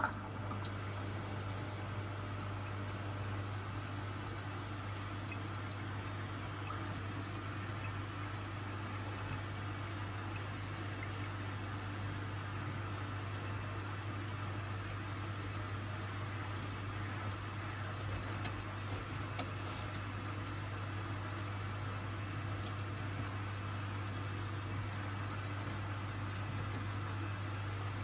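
Hoover washing machine moving water, either filling or pumping out, with water rushing over a steady low hum.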